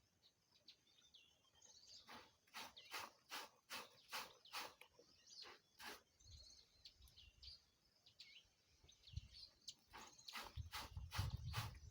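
Clothes being scrubbed by hand in a stream: two runs of quick rhythmic strokes, about two to three a second, the second starting near the end. Small birds chirp faintly throughout.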